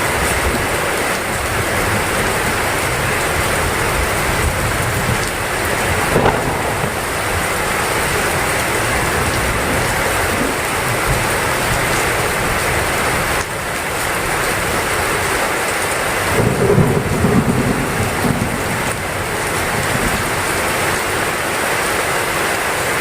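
Heavy rain falling steadily, with low thunder rumbles about six seconds in and again about two-thirds of the way through.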